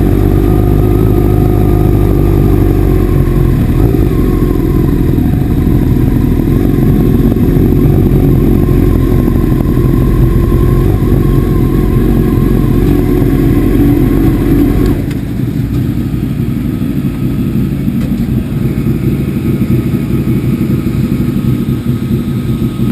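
Motorcycle engine running steadily while riding, dropping to a lower, lighter level about fifteen seconds in.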